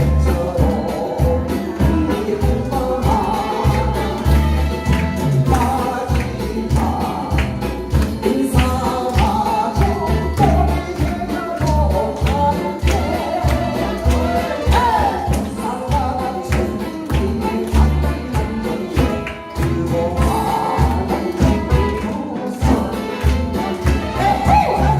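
Live band music with a singing voice over a steady beat and heavy bass.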